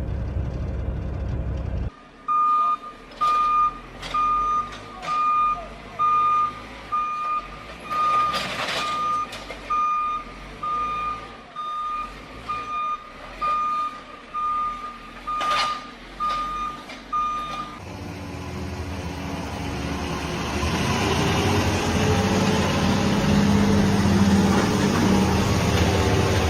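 A heavy vehicle's reversing alarm beeps steadily at one pitch, about one and a half times a second, for some fifteen seconds, with a few sharp knocks among the beeps. Before and after it, a large diesel engine runs, louder near the end.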